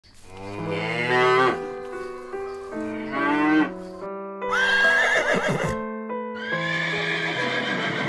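A calf calls twice, about two seconds apart, then about halfway through a horse whinnies with a wavering pitch that falls away. Background music with sustained notes plays underneath.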